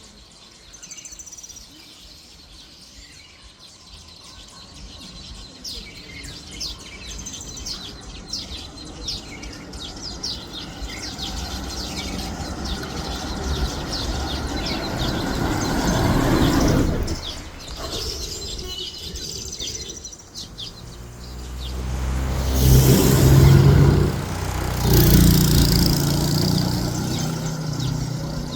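Weaver birds at their hanging nests give many short, high chirps throughout. Traffic passes close by: one vehicle swells and fades about halfway through, and a louder one passes near the end.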